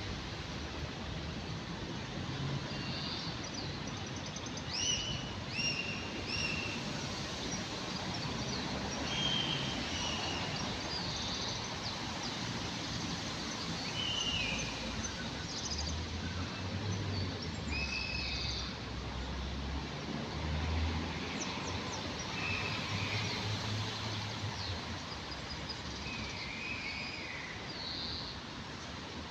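Common blackbird singing: short whistled phrases, each ending in higher squeaky notes, repeated every second or two over steady outdoor background noise. A low rumble runs for a few seconds midway.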